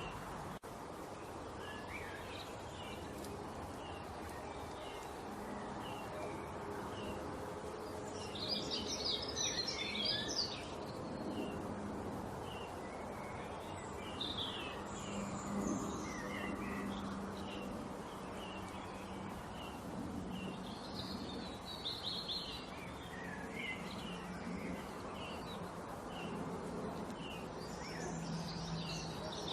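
Small songbirds chirping over and over, with louder spells of twittering song every several seconds, against a steady background hiss and low hum.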